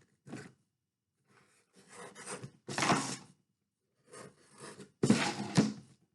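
A felt-tip marker drawing on a cardboard box: short scratchy rubbing strokes with pauses between them, the longest and loudest stroke near the end with a couple of light knocks against the cardboard.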